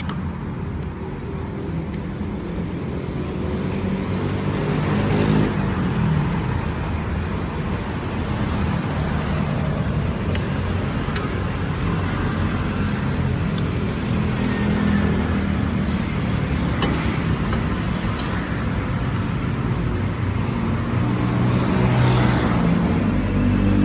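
Steady low rumble of motor vehicles, with a few short sharp clicks scattered through it.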